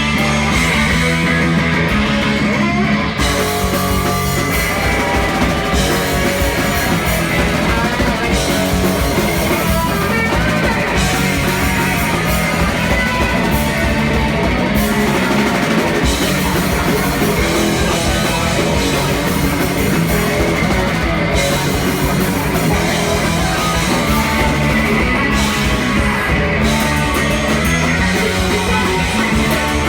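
Punk band playing live: loud distorted electric guitars, bass and a fast drum kit, steady and unbroken.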